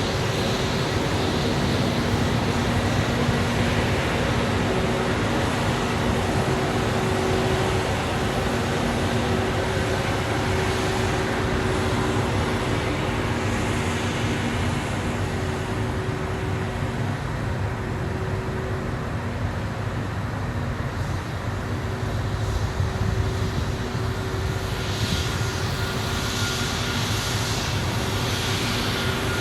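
Airbus A320's twin turbofan engines running: a steady, even noise with faint steady tones and no rise or fall throughout.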